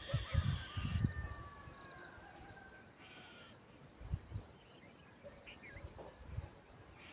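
Bird calls: drawn-out whistles that slowly fall in pitch, then a few short chirps, over low dull thumps.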